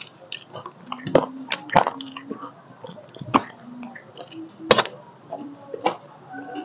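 Close-miked mouth sounds of a person eating chatpate, a crunchy spiced puffed-rice snack, with a spoon: chewing and wet smacking with several sharp clicks scattered through, and a few brief low hums.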